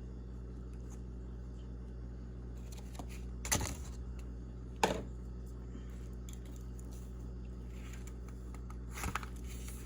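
A steady low hum with three light clicks or knocks, about three and a half, five and nine seconds in.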